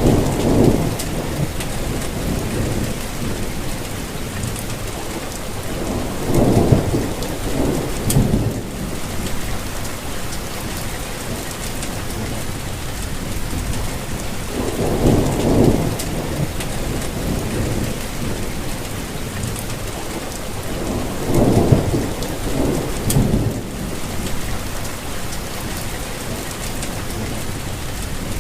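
Steady rain falling, with low rumbles of thunder swelling up four or five times, each lasting a second or two.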